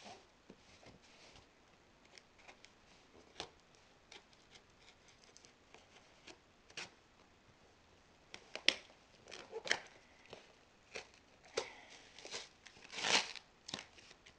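Small knife cutting and scraping at a cardboard shipping box, with scattered clicks and scratches that come thicker and louder in the second half.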